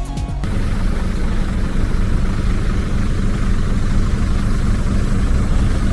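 Heavy truck engine idling steadily, a deep even hum; music cuts off about half a second in.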